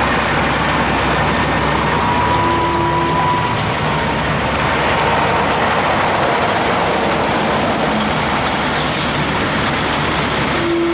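Semi-trucks and other highway traffic passing, a steady rush of road noise.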